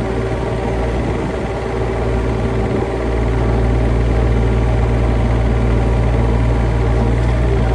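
A large engine running steadily with a low, even hum, easing off slightly about a second in and back to full level by about three seconds.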